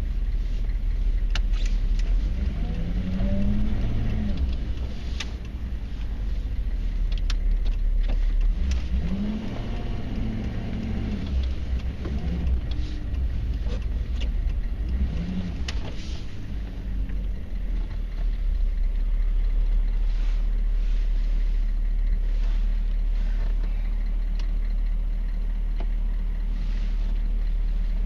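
The 6.5-litre V8 turbo diesel of a 1994 Chevy Silverado K1500 running while the truck is driven slowly, heard from inside the cab: a steady low drone whose pitch rises and falls three times as the truck speeds up and eases off, with a few scattered clicks.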